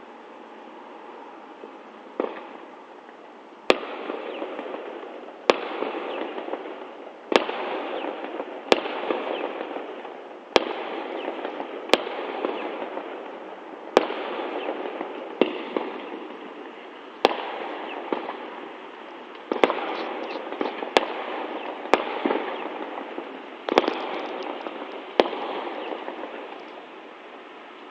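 Fireworks going off in a steady series, a sharp bang every second or two, about fifteen in all. Each bang is followed by a few seconds of crackling as it dies away.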